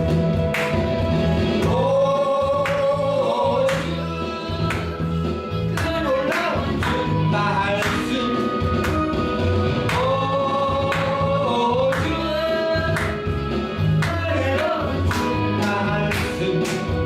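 Gospel praise song: long held sung notes over a band with a steady drum beat and bass.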